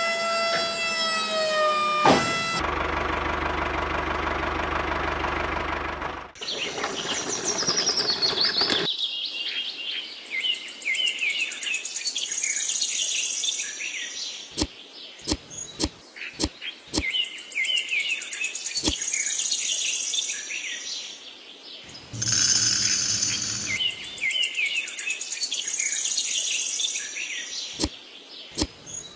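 A pitched motor sound falling in pitch and some mechanical noise for the first several seconds, then steady bird chirping and insect calls with sharp clicks now and then. A short burst of noise comes about 22 seconds in.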